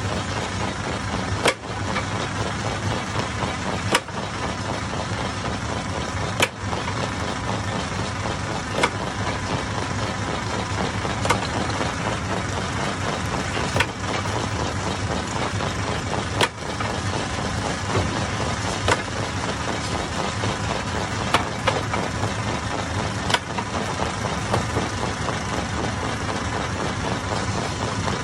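Hammer-type stone crusher running with a steady mechanical din, broken by a sharp knock about every two and a half seconds.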